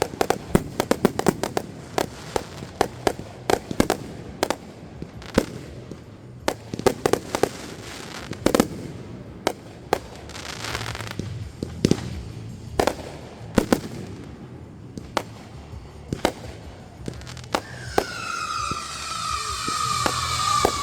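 Fireworks going off in rapid, irregular bangs and crackles, dozens of reports across the whole stretch. Near the end a whistling firework sets in, one tone slowly falling in pitch.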